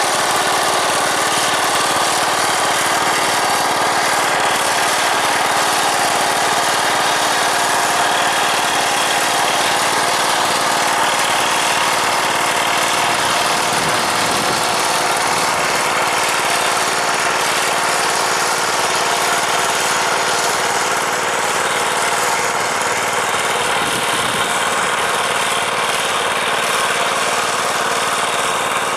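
Tractor's diesel engine running steadily under working load, with a constant dense mechanical clatter and no change in speed.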